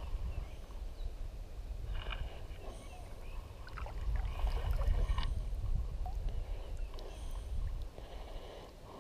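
Sounds of a fishing kayak on the water: a steady low rumble with scattered light knocks and small water sounds.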